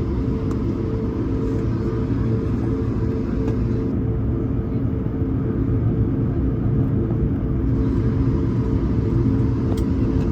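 Airbus A220-300's Pratt & Whitney PW1500G geared turbofan engines running, heard inside the passenger cabin: a steady low rumble with a constant hum.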